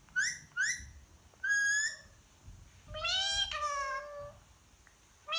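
A series of high, clear meow-like calls: two short rising chirps, then a held note, then a longer meow that falls in pitch and levels off.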